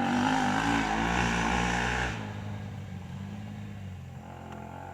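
Small motorcycle engine revving with a buzzy, wavering pitch, loud for about two seconds, then dropping off sharply to a quieter steady drone.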